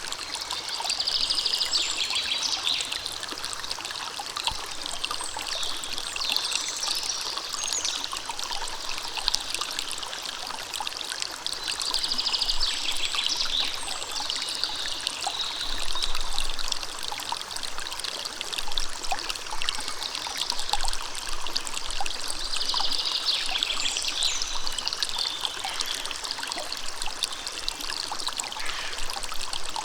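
River water running steadily with fine splashing and trickling. Short high bird phrases come through about three times, roughly ten seconds apart.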